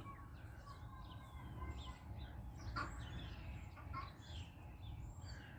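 Faint bird calls, many short sweeping chirps and notes, with a faint click a little under three seconds in.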